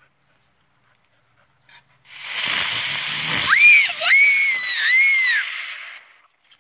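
Small spinning ground firework going off: a loud hiss starts about two seconds in, then a wavering whistle that rises and falls, and both die out near the end.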